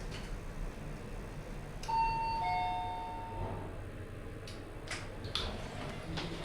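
Lift arrival chime: a two-note falling ding-dong about two seconds in, over a low steady hum, followed by a few sharp clicks near the end.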